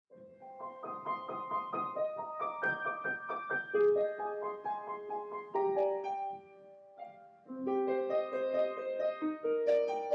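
Background piano music: a gentle melody over repeated notes, dropping away briefly midway before coming back in.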